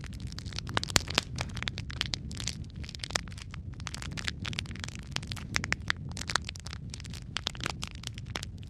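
Log fire burning in a fireplace: dense, irregular crackling and popping of the wood over a steady low rumble of the flames, with a sharper pop about a second in.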